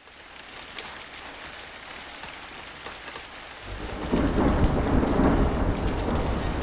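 Steady rain hissing with scattered close drops ticking, fading in at the start. A little past halfway a deep rumble of thunder rolls in and builds, becoming the loudest sound.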